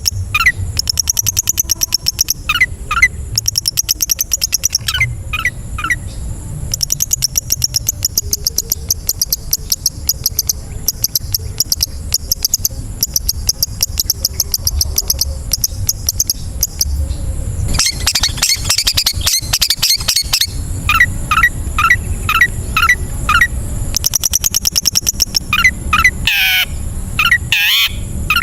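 Long-tailed shrike song in a busy, varied stream: long, very fast high trills, runs of quick down-slurred whistled notes repeated several times, and a dense scratchy chatter about two-thirds of the way through. A low steady hum runs underneath.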